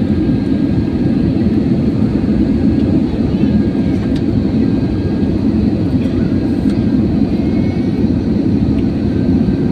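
Steady roar of an Airbus A320's engines and airflow, heard from inside the passenger cabin.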